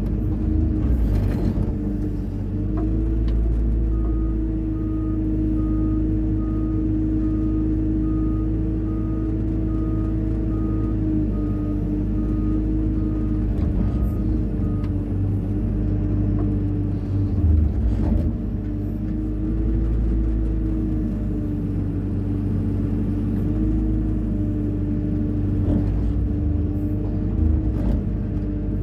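Hyundai 140 wheeled excavator's diesel engine running steadily, its pitch shifting slightly now and then. A high beep repeats about twice a second for roughly ten seconds starting a few seconds in, and a few sharp knocks come through.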